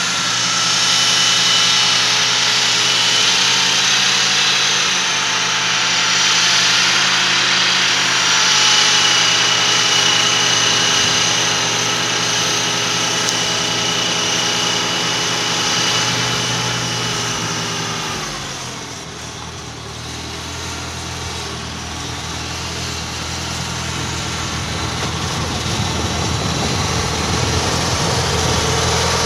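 1947 Ford 8N tractor's four-cylinder flathead engine running steadily. About two-thirds of the way through its note slides down and drops in level, then it slowly builds louder again.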